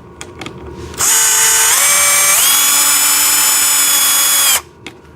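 Power drill running for about three and a half seconds as it backs a bolt out, its motor whine stepping up in pitch twice as the trigger is squeezed harder, then stopping abruptly.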